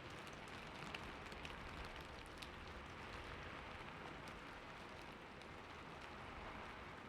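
Soft steady rain with a fine patter of individual drops ticking on hard surfaces.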